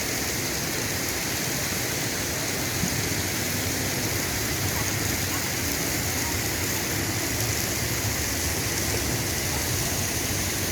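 Steady rushing of falling water, as from a waterfall or cascade, an even hiss without change.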